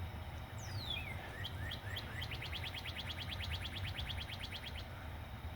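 A songbird singing: a falling whistled note and a few short chirps, then a fast, even trill of about ten notes a second that stops near the end.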